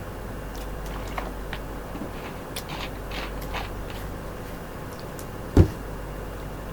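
Steady low background hum with scattered faint clicks, and one short, dull thump about five and a half seconds in.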